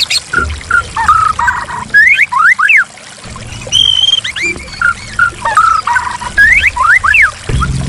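White-rumped shama singing over running water. It sings the same phrase twice, short whistles followed by quick rising sweeps.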